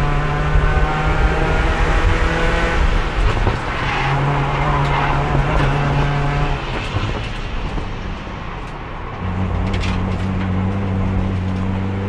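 Race car engine heard from onboard, pulling steadily in one gear. The note falls away and goes quieter for a couple of seconds past the midpoint, then comes back on throttle and rises slowly. The car is held in fourth gear because the transmission has lost third and won't shift at speed, so the engine note rises and falls with no gear changes.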